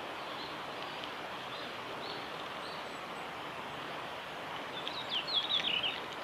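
Male red-flanked bluetail singing: a short, quick warbled phrase about five seconds in, after a few faint high notes, over a steady background hiss.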